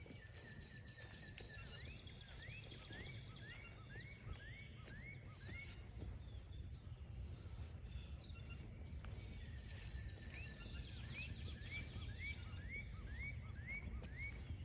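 Northern cardinal singing: two phrases, each a drawn-out whistle followed by a run of about seven quick upslurred whistles, about two a second, the second phrase coming about ten seconds in. A low steady background rumble runs underneath.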